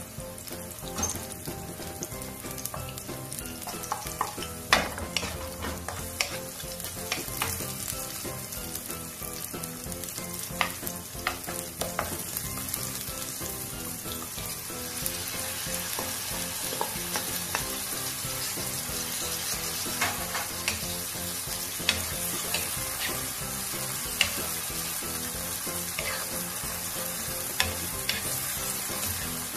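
Oil sizzling in a wok as sliced shallots, garlic and ginger fry, with a spatula clicking and scraping against the pan. About halfway through the sizzle grows thicker and louder as marinated chicken pieces go into the hot oil.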